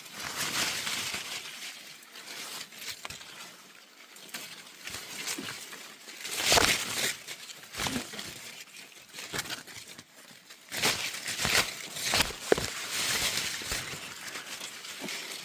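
Irregular rustling and crackling of leaves and branches, with scattered sharp knocks and scuffs, loudest about halfway through and again near the end.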